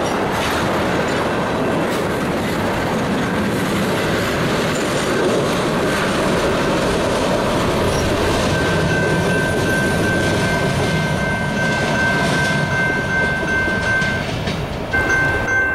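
Freight train's tank cars and covered hopper rolling past at track speed: a steady rumble and clatter of steel wheels on the rails. About halfway through, a steady high-pitched squeal of wheels against rail joins in.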